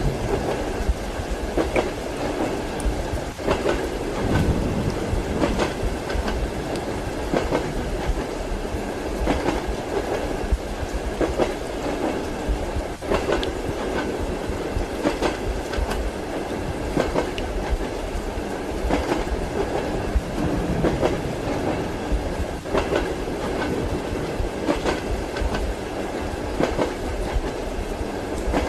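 Passenger train car running along the track, heard from inside a compartment: a steady rumble with the wheels clacking over rail joints every second or two.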